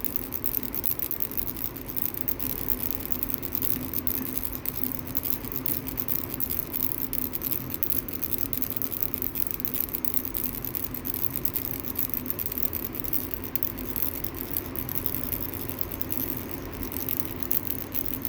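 Mini ball baby rattle shaken continuously, a dense, fast, even rattle, over a steady low hum.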